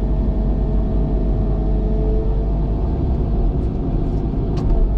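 Cat excavator's diesel engine running steadily under working load, with a faint whine through the first half and a couple of light clicks near the end.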